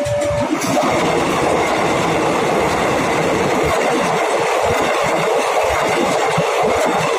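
KRL electric commuter train passing close by through the level crossing: a loud, steady rush of wheels running on the rails. A held tone cuts off just after the start.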